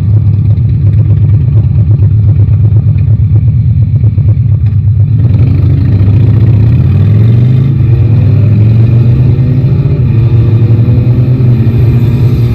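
Yamaha Tracer 9 GT motorcycle's three-cylinder engine, heard from the rider's seat. At first it runs low under heavy buffeting rumble; from about five seconds in it accelerates, its pitch climbing in steps and then holding steady.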